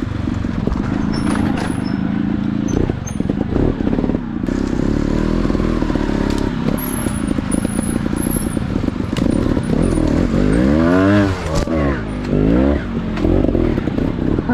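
Off-road motorcycle engine running and being revved, its pitch swinging up and down a few times near the end.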